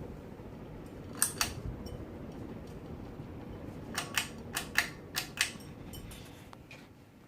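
Hampton Bay Lyndhurst ceiling fan running with a steady low sound. Two sharp clicks come about a second in, then a quick run of about five clicks around the middle. The fan sound fades away near the end.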